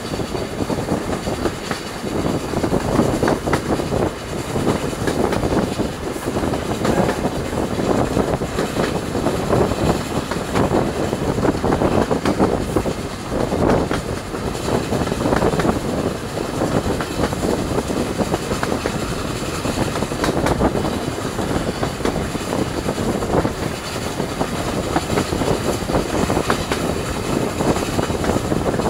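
Passenger train running at speed, heard from an open carriage window: steady wind buffeting the microphone over the rumble of the coach wheels on the track.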